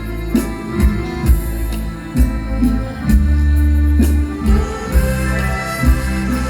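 Mor lam band playing live, an instrumental passage: a heavy bass line under a steady drum beat of about two hits a second, with sustained melody tones above.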